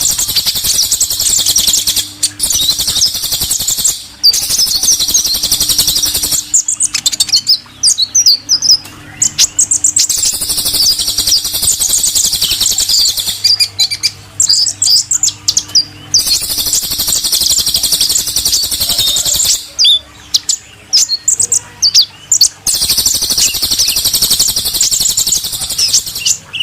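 Sunbirds (the 'kolibri' of Indonesian bird-keeping) singing in fast, high-pitched twittering runs several seconds long, broken by short pauses, over a faint steady hum.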